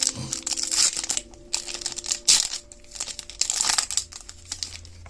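Foil Pokémon booster pack wrapper crinkling and tearing as it is opened, in a run of irregular rustles.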